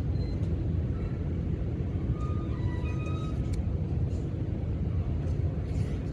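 Steady low outdoor rumble, like distant traffic or wind, with a few faint, short, high-pitched chirps near the middle.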